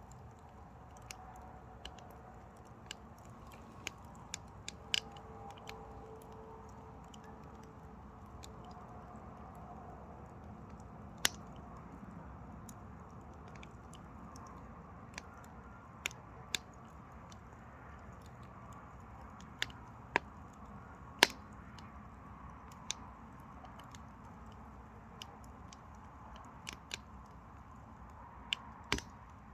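Mini pine firewood burning in a Carix Vulcan 26 wood stove: irregular sharp crackles and pops over a faint steady background, with a few louder pops scattered through.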